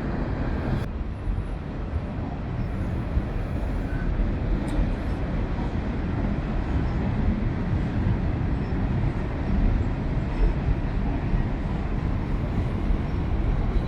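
Wind rushing over the microphone while cycling, a steady low rumbling noise that wavers in loudness.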